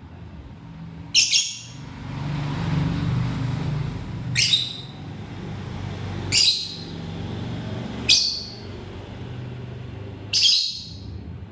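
Lovebird giving five short, shrill calls a couple of seconds apart, each falling in pitch, over a steady low rumble.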